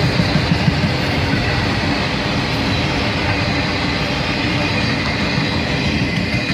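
CSX freight train's cars rolling past, a steady rumble of steel wheels on the rails.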